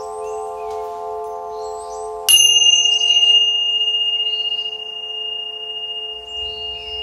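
A steady ringing bell tone with overtones, then a bright high chime struck about two seconds in that rings on and slowly fades. Birds chirp throughout.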